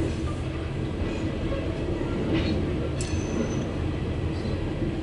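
Heavily loaded coal train rolling past: a steady, heavy rumble of steel wheels on rail, with a sharp clank about three seconds in followed by a brief high ring.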